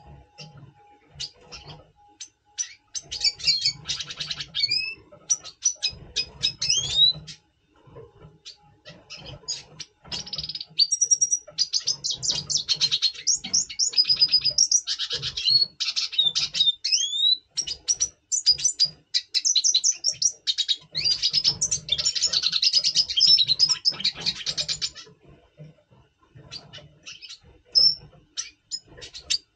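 Red siskin singing in breeding condition: fast, twittering song in three long bursts with short rising slurs, and scattered quick chips in between.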